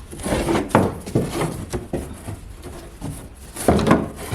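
Wooden paneling being handled and fitted: a series of irregular knocks and scrapes of wood.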